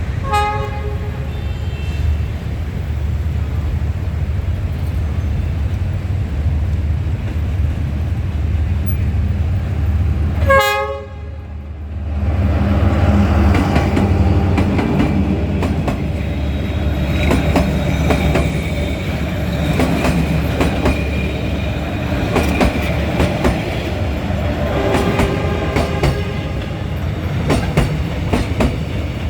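Diesel-electric locomotive (Vietnam Railways D19E) running with a steady low engine drone, sounding short horn blasts at the start, about a third of the way through, and more faintly near the end. In the second half the passenger train passes close, with the rushing of the cars and the wheels clacking over rail joints.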